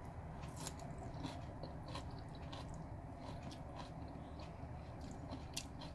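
A person chewing a mouthful of sautéed lettuce and cooked sweet potato: faint mouth sounds with scattered small clicks.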